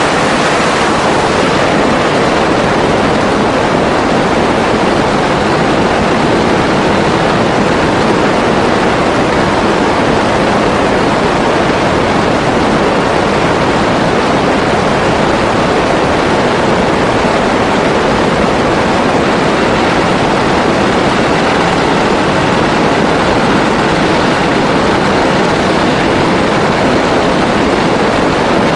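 Grumman G-164 Ag Cat seaplane's engine and propeller running, heard as a loud, steady rushing noise of engine and prop wash with no distinct engine note or change.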